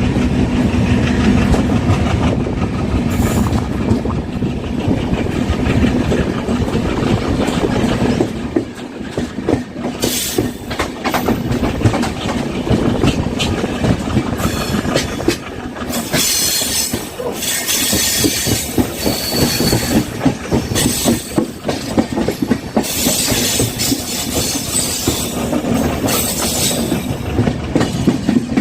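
Passenger train passing on the track: a steady low hum at first, then wheels clattering rapidly over rail joints. Intermittent high-pitched wheel squeal joins in during the second half.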